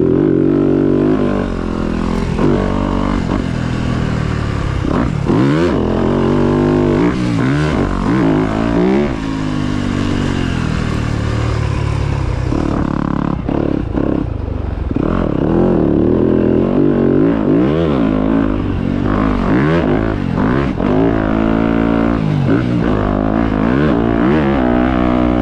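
Motocross dirt bike engines revving up and down as they ride the track, more than one engine heard at once, with the pitch repeatedly climbing and dropping through the gears.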